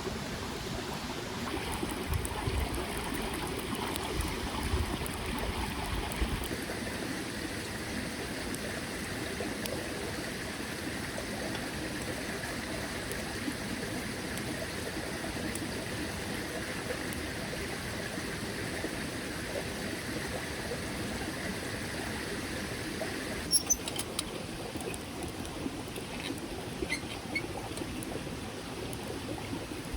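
Small mountain stream trickling and flowing steadily. A few sharp clicks come about three-quarters of the way through.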